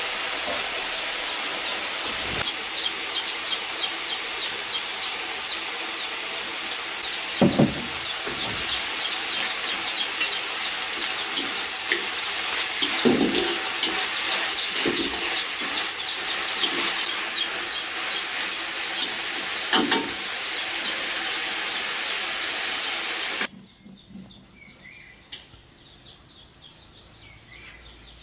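A steady hiss with birds chirping repeatedly over it, and a few low knocks. The hiss cuts off suddenly near the end, leaving quieter bird chirps.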